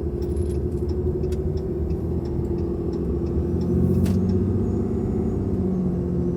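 A 2022 Ram 2500's 6.7 L Cummins turbo-diesel pulling under light throttle, heard from inside the cab with an S&B cold air intake fitted. It is a steady drone that swells slightly partway through, with the turbo and intake sound audible.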